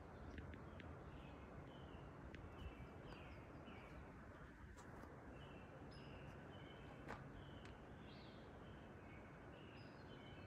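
Near silence with faint birds chirping: short calls repeating every second or so over a quiet hiss, with a few soft clicks.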